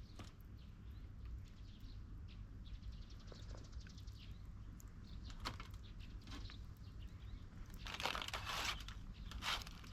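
Dry crackling and crunching, small scattered clicks with two louder crunches about eight and nine and a half seconds in.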